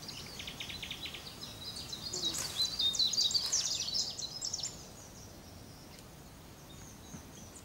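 Birds chirping in quick, high notes that jump about in pitch, busiest in the middle and stopping just under five seconds in, leaving a faint steady hiss of forest ambience.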